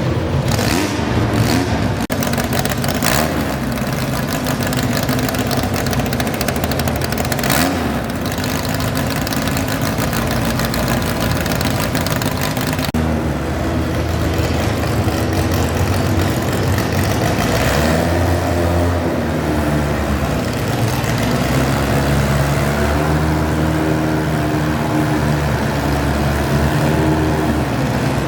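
Modified pulling garden tractor engine running loud; about halfway through the sound changes abruptly and the engine's pitch rises and falls several times as it revs.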